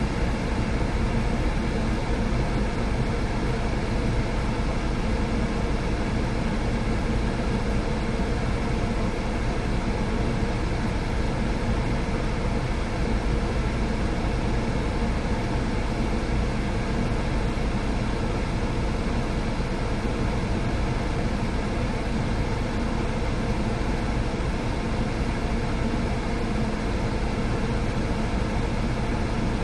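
Steady low rumble and hum of a car running.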